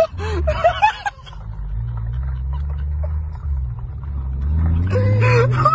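Car engine running with a steady low hum, heard from inside a car, revving up with rising pitch in the last couple of seconds. Brief shouts at the start and near the end.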